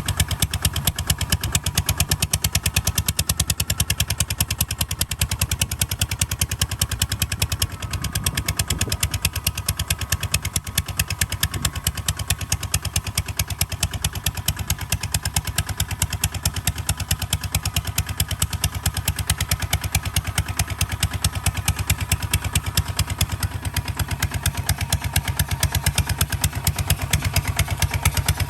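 Kubota ZT 155 DI single-cylinder diesel engine on a hand tractor running steadily, with a rapid, even firing beat.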